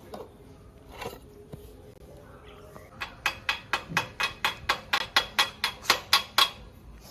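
A quick, even run of about sixteen sharp knocks, four or five a second, lasting about three and a half seconds, after a single knock about a second in.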